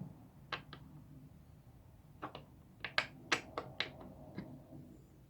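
Sharp clicks and taps of hard chair parts and hardware being handled and fitted during assembly, about ten in irregular clusters.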